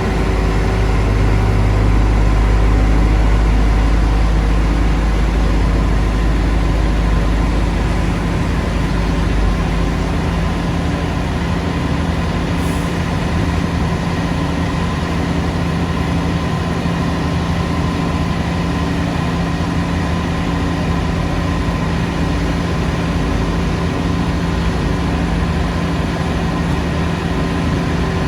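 Heavy diesel engine of road-construction machinery running steadily, with a deep rumble that is strongest for the first several seconds and then eases off to a steadier hum.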